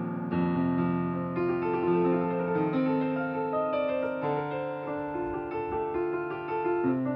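Piano music: a slow melody of held notes over sustained bass notes.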